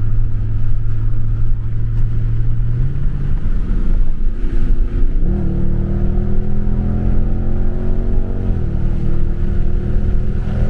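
Dodge Charger's engine heard from inside the cabin on a full-throttle pull from about 60 mph: a steady cruising hum, then a kickdown about three seconds in as the revs jump. It pulls hard with a slowly rising pitch, then the pitch drops as the throttle is lifted about two seconds before the end.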